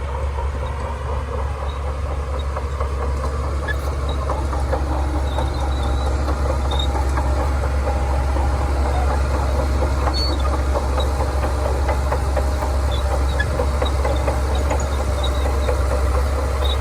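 Shantui crawler bulldozer working: its diesel engine runs steadily under load while the steel tracks clatter and clank continuously, growing a little louder in the first few seconds.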